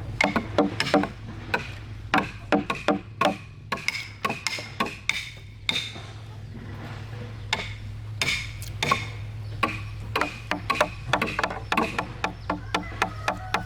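Tools striking timber in quick, irregular runs of sharp knocks, some with a short ringing note, with a steady low hum underneath.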